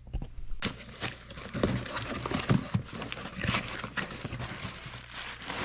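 A cardboard box being opened and a new mower deck spindle assembly handled out of it: irregular rustling and scraping of cardboard, with scattered light knocks and clicks.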